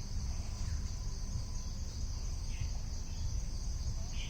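Steady, high-pitched insect chorus trilling without a break, with a few brief chirps over it, one a bit past halfway and one near the end, and a steady low rumble underneath.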